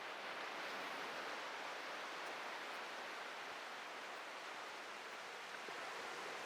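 Atlantic ocean surf washing onto a beach: a steady, even hiss of breaking waves.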